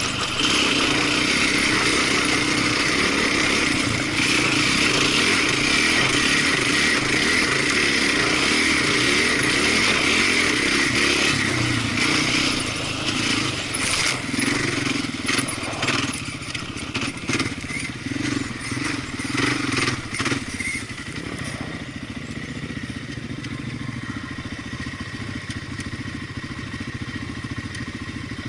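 Small off-road engine running under way on a dirt trail. For the first half it runs loud and steady. Around the middle comes a run of clattering knocks, and then it settles to a quieter, steadier run.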